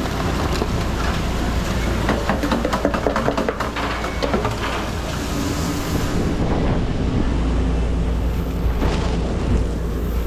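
Steady low rumble of a working food truck kitchen, with a run of quick clicks and scrapes about two to four seconds in and a few more near the end.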